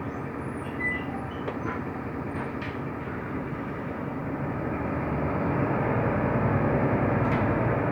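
Mercedes-Benz O345 Conecto LF city bus driving, heard from inside the passenger cabin: a steady engine and road rumble with a few faint rattles, growing louder about five seconds in.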